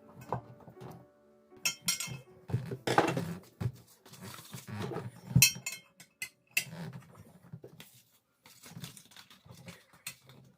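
Irregular knocks and metallic clinks at uneven intervals, the loudest about three seconds and five and a half seconds in, with a quiet stretch near the end.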